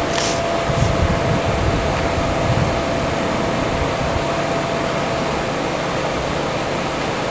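Vintage air conditioner running: a steady rush of air from its fan with a constant hum and a faint high whine.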